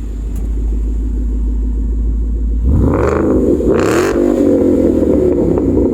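Roush-supercharged Ford 5.0 V8 in a 2011 Mustang GT, breathing through a Borla aftermarket exhaust. It idles with a deep, steady burble, is revved twice about three seconds in, and stays at a higher, louder speed.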